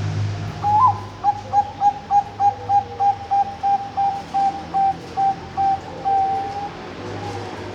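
Zebra dove (Bangkok perkutut) cooing: a rising opening note, then a run of short, evenly repeated coos at about three a second that slow slightly, ending in one longer drawn-out note. A low rumble sits under it.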